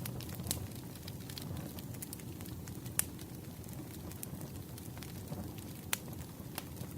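Campfire burning: a steady low rumble of flames with scattered sharp crackles and pops, the loudest about three and six seconds in.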